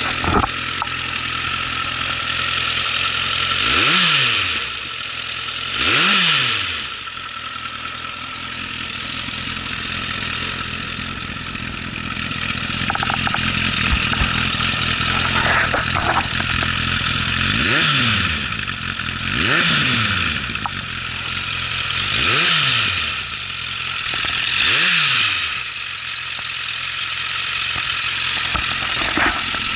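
Suzuki GSF1200 Bandit's inline-four engine starting up and then idling. It is blipped six times, each a quick rise and fall in revs, two close together about 4 and 6 seconds in and four more between about 18 and 25 seconds.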